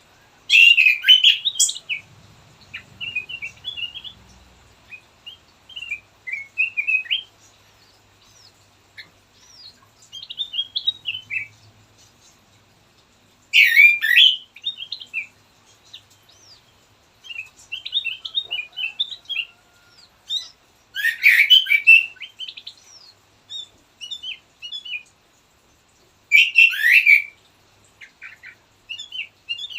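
Kutilang emas bulbul singing: loud, quick chirping phrases come about every six to seven seconds, with softer, varied twittering between them.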